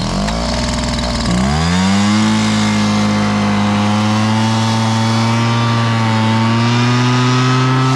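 Outboard boat motor running just after start-up: the revs climb over the first two seconds, then hold steady at a high speed.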